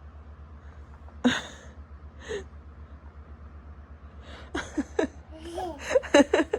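An 11-month-old baby's short vocal sounds: a sharp gasp-like cry about a second in, a softer one shortly after, then a quick run of high babbling squeals near the end. A steady low hum runs underneath.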